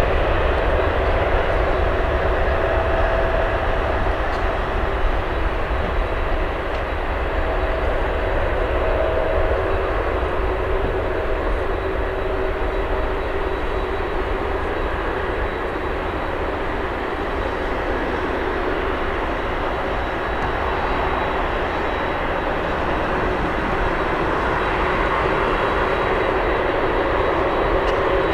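Jet airliner engines running: a steady, dense noise with a few faint held tones. It eases slightly about midway and builds again near the end.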